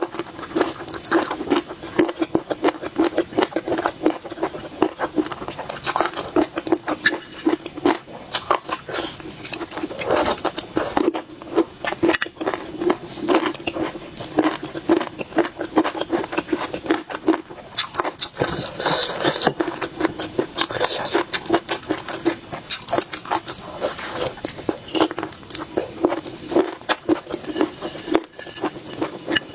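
Close-miked chewing of boneless chicken feet in chili sauce: dense, irregular crunching and mouth clicks with no pause throughout.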